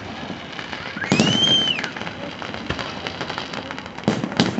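Fireworks display: aerial shells bursting about a second in and twice near the end, over continuous crackling. A short whistle rises and then falls alongside the first burst.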